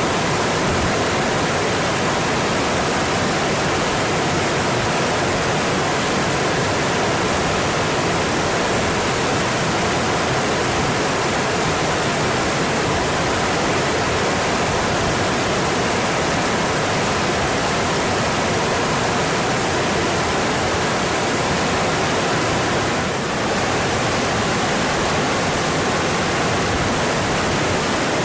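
Mountain stream flowing steadily: a dense, even rush of water with one brief, slight drop in level near the end.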